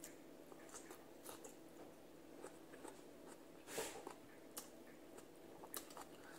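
Faint close-up chewing and mouth clicks of a person eating sautéed green mustard greens with her hands, with one short, louder breathy sound a little past halfway.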